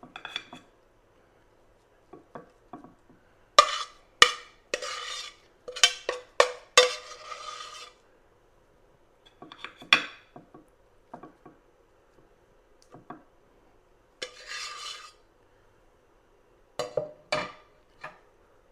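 Plates and kitchen utensils being handled: scattered clinks and knocks with a few short scrapes, in irregular clusters separated by pauses.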